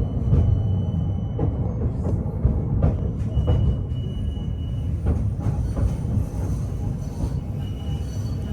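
PKTS 71-931M Vityaz-M tram running, heard from on board: a steady low rumble with several sharp knocks from the wheels on the track, and short thin high tones now and then.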